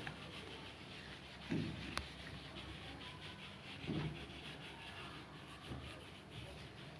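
Faint scratching and rubbing of colouring on paper, with a single sharp click about two seconds in and a few soft knocks.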